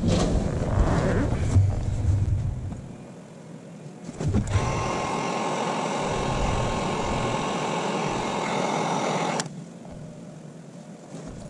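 Low rumbling handling noise, then, about four and a half seconds in, a steady hiss that lasts about five seconds and stops abruptly.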